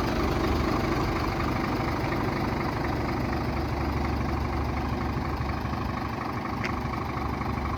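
Scania R450 truck's 13-litre inline-six diesel idling steadily, with a light tick near the end.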